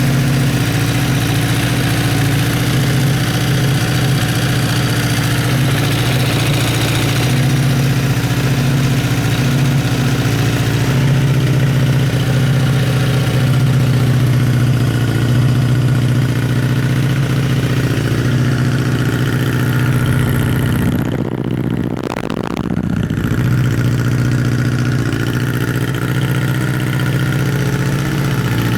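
Honda CBX550F2 Integra's air-cooled inline-four engine idling steadily. About three-quarters of the way through, the engine speed sags briefly and then picks back up to a steady idle.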